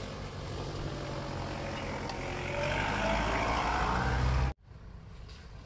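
An off-road 4x4's engine running, rising in pitch and getting louder as it revs up about two and a half seconds in. The sound cuts off abruptly near the end, leaving only a fainter engine sound.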